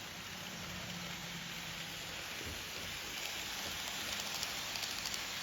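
N-gauge model trains running on the layout track: a steady whirring rush of small wheels and motors, with quick clicks of wheels over rail joints coming in near the end.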